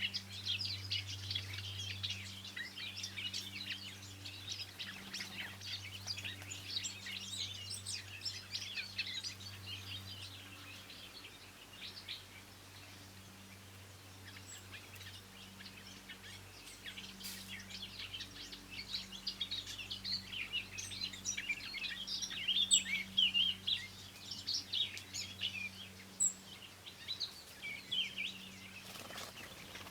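Many small birds chirping and singing in a dense chorus of short, quick notes, thinning out for a few seconds midway before picking up again. A steady low hum runs underneath.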